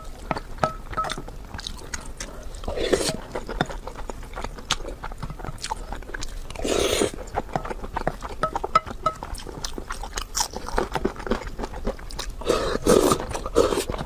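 Close-miked mukbang eating: wet chewing and biting with many small mouth clicks, and a few longer noisy stretches about three, seven and thirteen seconds in.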